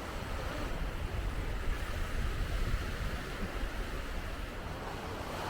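Sea waves washing onto a beach: a steady rushing noise with a low rumble of wind on the microphone.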